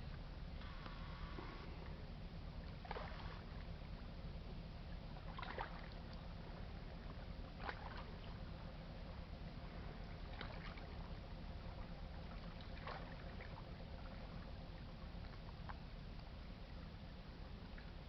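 Low, steady rumble of the freighter's engines as she passes, with a faint steady hum and a brief high chirp or squeak every two to three seconds.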